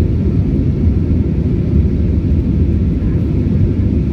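Steady low rumble of an Airbus A320 in flight, heard inside the cabin: engine and airflow noise with no change in level or pitch.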